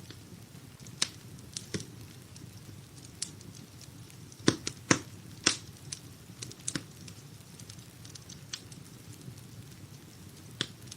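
Wood fire burning in a fireplace, with a low steady rumble under scattered sharp crackles and pops. A quick run of the loudest pops comes near the middle.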